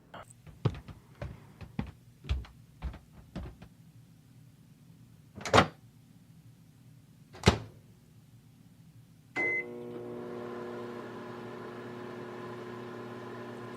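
A series of light clicks and two sharp thuds, then a short beep, and a microwave oven starts running with a steady hum, heating frozen lasagna.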